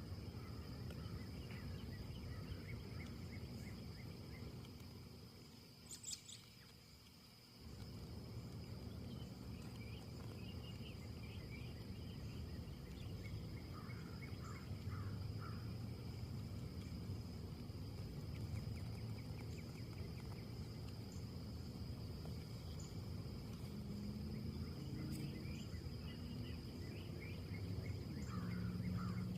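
Wind blowing through trees as a steady low rush that dies away for a couple of seconds about a quarter of the way in, then picks up again. Over it, a steady high insect trill runs throughout, and small birds give short series of chirps several times.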